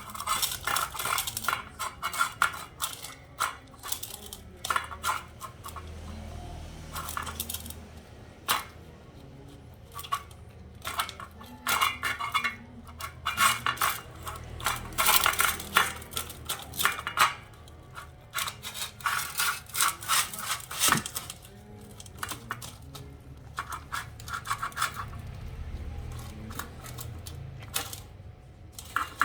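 A dog eating: crunching and chewing food in irregular bursts of clicks, with short pauses between.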